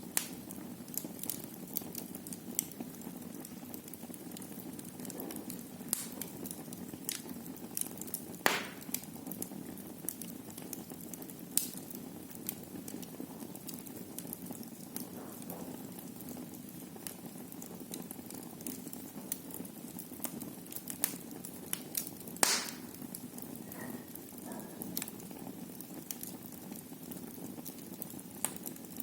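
Wood fire burning in a fireplace: a steady low rush of flames with frequent small crackles, and two sharper pops about eight seconds in and about twenty-two seconds in.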